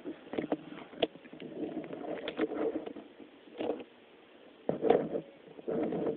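Sleeping cat breathing through a blocked nose while lying face-down, making irregular snuffly puffs with small clicks in several bursts, the loudest about five seconds in.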